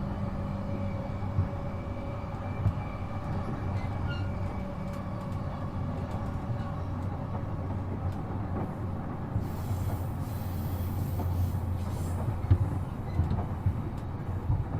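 E233-7000 series electric train running between stations, heard on board: a steady rumble of wheels on rail with a constant low hum. A brief high hiss joins in about two-thirds of the way through.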